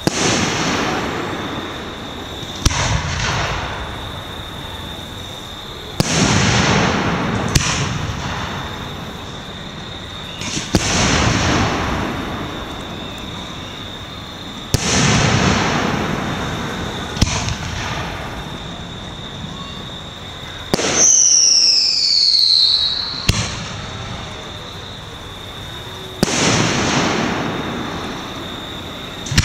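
Aerial fireworks display: shells bursting every few seconds, each sharp bang followed by a long rolling echo that fades away. A falling whistle sounds about two-thirds of the way through.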